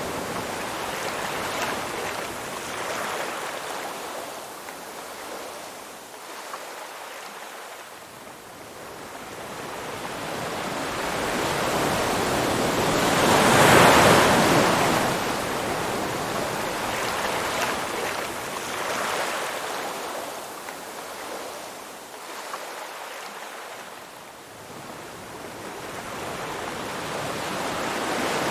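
Ocean waves washing onto a shore. A wash of noise swells and fades slowly, loudest about halfway through and building again near the end.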